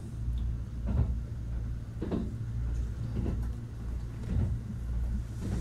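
Running noise of a Kintetsu 80000 series Hinotori electric limited-express train heard inside the passenger cabin: a steady low rumble with a knock about once a second.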